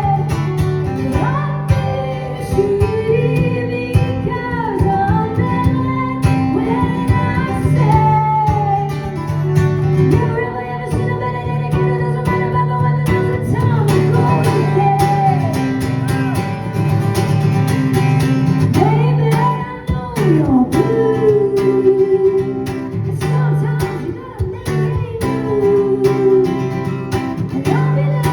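Live rock-pop song: a woman singing over strummed acoustic guitar, with a band's bass and drums.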